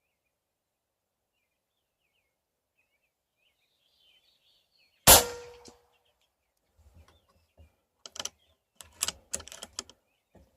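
A single PCP air rifle shot about five seconds in: a sharp crack with a short ringing tail. A few seconds later comes a quick run of light clicks and knocks.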